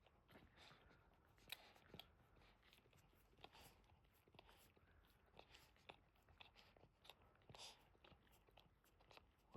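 Near silence with faint, irregular small wet clicks and smacks from a Boston terrier mother licking her newborn puppies as they suckle.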